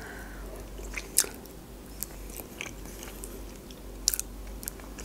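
Close-miked chewing of a bite of baked sushi roll: soft wet mouth sounds with a few sharp clicks and smacks, the clearest about a second in and again about four seconds in.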